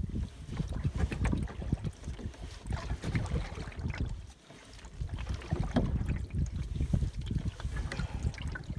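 Wind buffeting the microphone in uneven gusts of low rumble out on the water in a canoe, easing briefly about halfway through.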